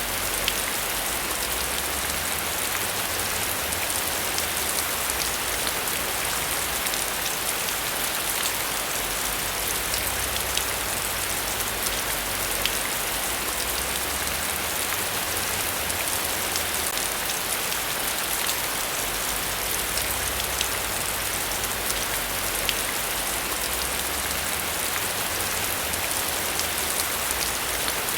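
Heavy rain falling steadily: a constant hiss with individual drops ticking through it, and a low rumble underneath that comes and goes.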